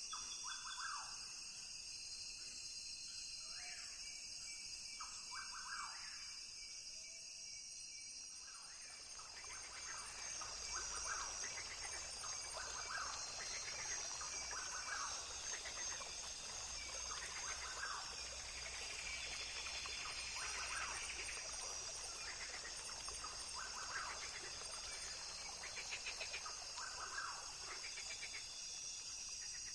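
Rainforest ambience: a steady high insect drone with short animal calls repeating every second or two. Less than a third of the way in, a soft hiss with a low rumble joins and the whole grows a little louder.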